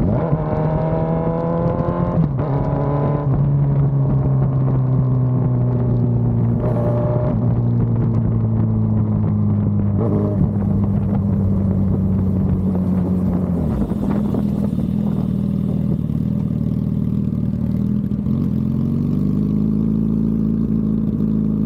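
Sport motorcycle engine running under way, its note falling slowly for the first dozen seconds, holding steady, then rising again near the end as the throttle is opened.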